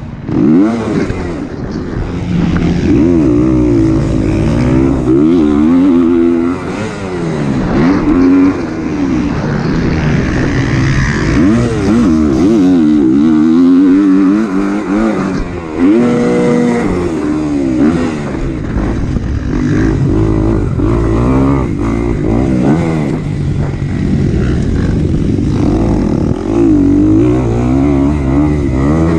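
Four-stroke 250 motocross bike engine, a Kawasaki KX250, revving hard: its pitch climbs and drops again and again as the bike accelerates, shifts and backs off.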